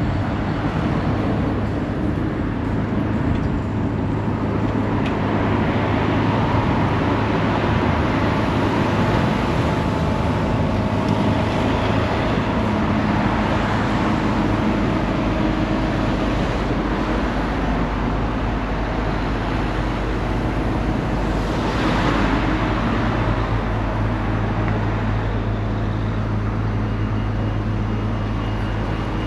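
Road traffic: a steady engine hum with vehicles going by, one louder pass about two-thirds of the way through.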